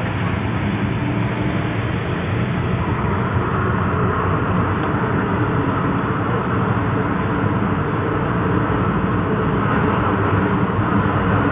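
MTR M-train running, heard from inside the car as it leaves the platform and enters the tunnel: a steady rumble of wheels on rail and traction motors that grows a little louder as the train picks up speed.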